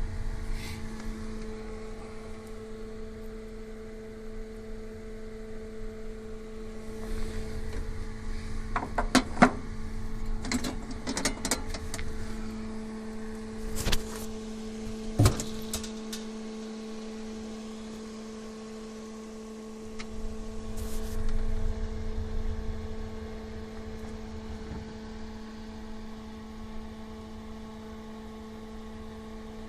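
A steady two-tone mechanical hum over a low rumble, broken by a short run of sharp clicks and knocks about nine to sixteen seconds in.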